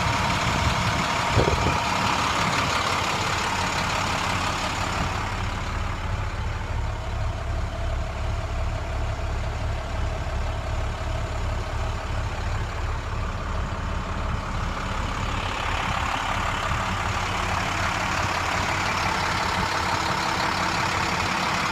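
2008 International 4300 dump truck's MaxxForce DT inline-six diesel idling steadily, with a short thump about a second and a half in. The engine sounds more muffled from about five seconds in, then brighter again for the last several seconds.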